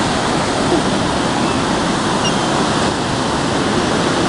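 Ocean surf washing on the beach, a steady loud rushing.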